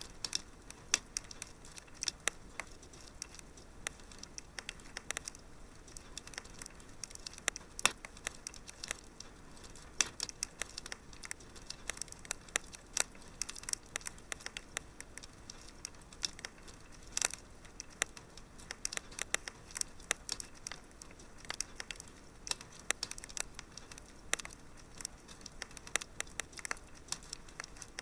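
Wood fire crackling in a fireplace: a soft steady hiss with irregular sharp pops and snaps, a few of them louder.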